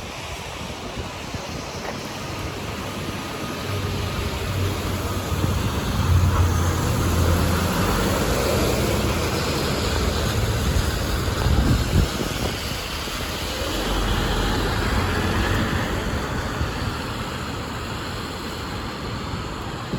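A city bus's engine rumbling as it moves past, with traffic noise around it; the engine grows louder from about six seconds in, with a brief knock near twelve seconds.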